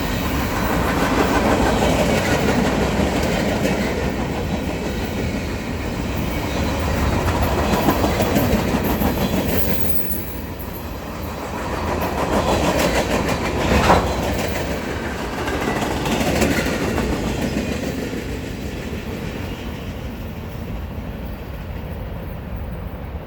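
Freight cars of a Norfolk Southern manifest train rolling past, wheels clicking over the rail joints, with one sharp clank about fourteen seconds in. The sound eases off over the last few seconds.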